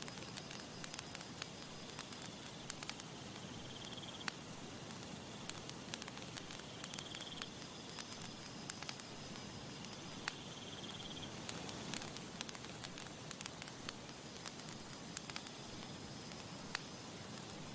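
Campfire crackling: frequent sharp pops and snaps over a steady low hiss of burning wood. A few short high trills sound about a third of the way in, again near the middle and again a little later.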